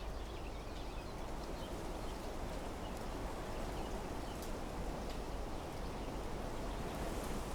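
Wind blowing through trees, a steady rushing that grows a little louder toward the end, with faint, scattered bird chirps above it.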